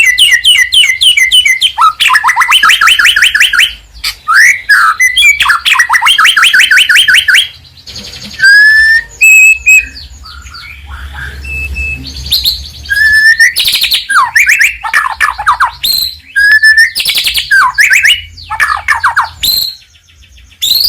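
White-rumped shama (murai batu) singing loudly: rapid runs of repeated sweeping notes, broken by clear rising whistles and short trills. There is a quieter spell of single whistles partway through.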